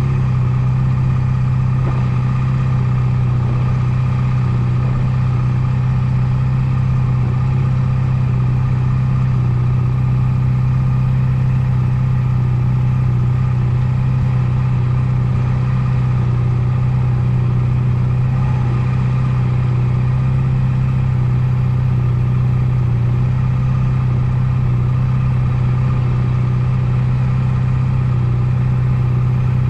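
Honda Nighthawk 250's air-cooled parallel-twin engine running at steady revs, one even note with no revving.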